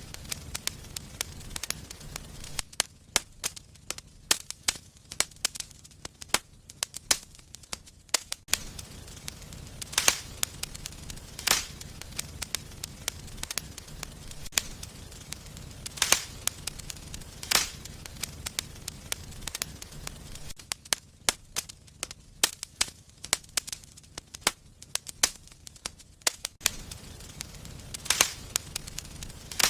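Wood fire burning in a fireplace, crackling steadily with frequent sharp pops, the loudest every second or two, over a low steady rumble.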